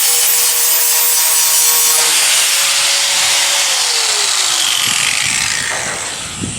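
A power tool cutting the steel of a truck hood to remove a rust hole, making a loud, hissing grind over a steady whine. About four seconds in, the whine falls in pitch as the tool slows and the grinding fades.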